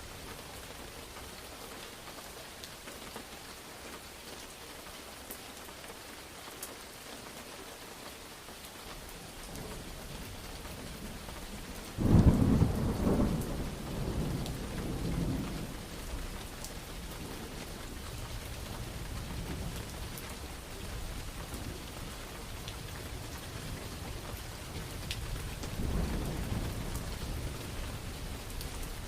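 Steady rain falling, with a low rumble of thunder building, then a sudden loud crack of thunder about twelve seconds in that rolls on for several seconds, and a further roll of thunder near the end.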